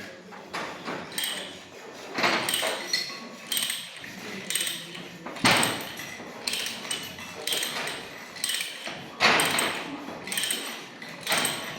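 Hand work on a metal pipe: short, irregular scraping strokes of metal on metal, about one and a half a second.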